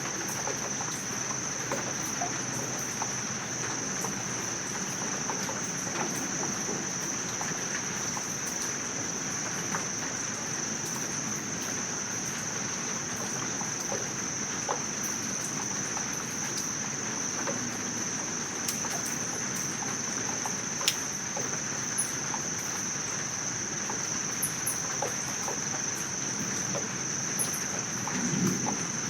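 Insects, likely crickets, trilling in one steady high-pitched drone at dusk, with no break. A few brief, very high chirps sound over it in the second half.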